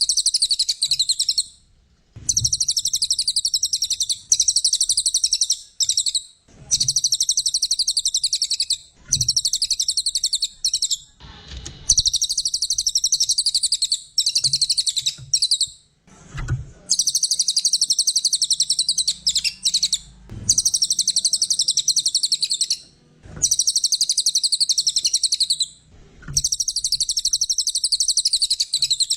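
A cililin coklat songbird singing rapid, high, buzzy trills in repeated bouts of a few seconds each, with short pauses between them, as a masteran recording for tutoring other songbirds.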